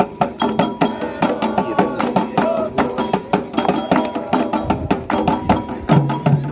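Candomblé ritual percussion: hand drums with a struck bell or wood-block sound keeping a fast, even, unbroken rhythm of strikes.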